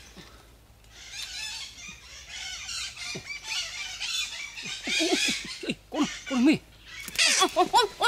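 Birds chirping and squawking: a quick run of high chirps, then harsher, lower squawks in the second half, loudest near the end.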